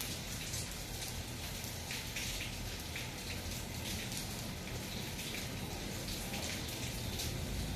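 Steady rain falling, with many separate drops striking a surface.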